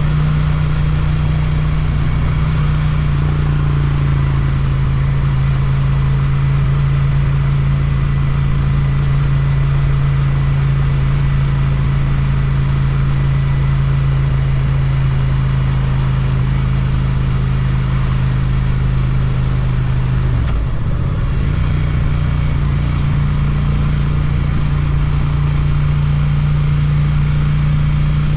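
Suzuki motorcycle's twin-cylinder engine through an Akrapovic exhaust, running at a steady pace while riding. About two-thirds of the way through, the revs dip briefly, as at a gear change, then settle back to the same steady note.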